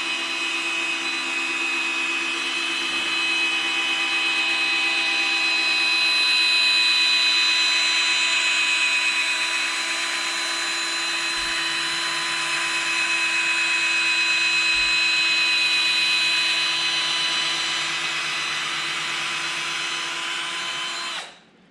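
Corded drill spinning a polishing pad against a plastic headlight lens, running steadily with a whine; its loudness rises and eases slightly as it works, and it cuts off suddenly near the end.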